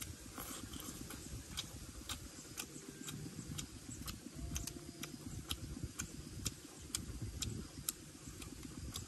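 A person chewing food with mouth-smacking clicks about twice a second, over a low, muffled noise.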